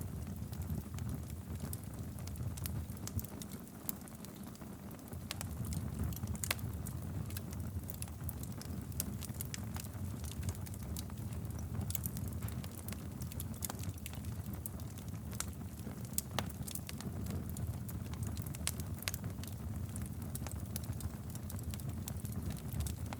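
Wood fire crackling in a fireplace: a steady low rumble of flame with frequent sharp pops and snaps scattered throughout.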